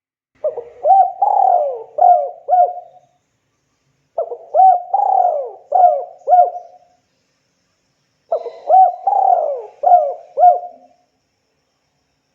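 Spotted dove cooing: three repeated phrases, each a run of about five short rising-and-falling coos lasting about two and a half seconds, with a little over a second of quiet between them.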